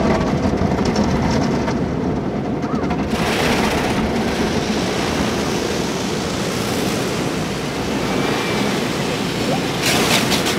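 Automatic tunnel car wash heard from inside the car: a steady rumble of the wash machinery, with a hiss of water spray coming in about three seconds in and a burst of crackling near the end.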